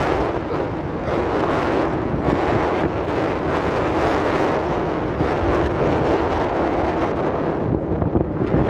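Strong wind buffeting the microphone, over a steady low rumble.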